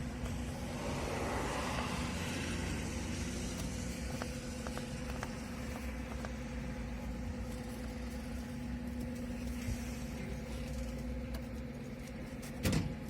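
Car engine idling steadily, with a sharp knock near the end.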